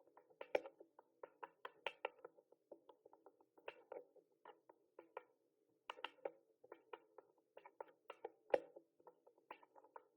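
Mechanical keyboard keys clacking under irregular typing, several keystrokes a second, with a brief pause about halfway through.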